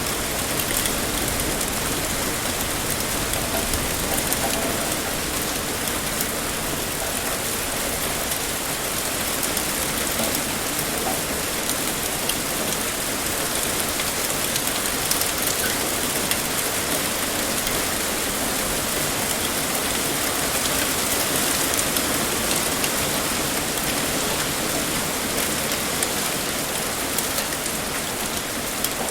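Heavy rain pouring steadily, a dense even hiss of drops with fine pattering on a surface.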